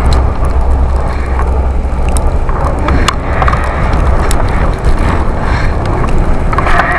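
Electric bike riding fast through snow, heard through a bike-mounted camera: heavy low wind rumble on the microphone, with scattered sharp clicks and rattles.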